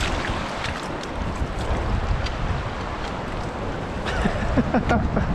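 Steady rushing noise of wind buffeting the microphone together with running water, with low rumbling gusts.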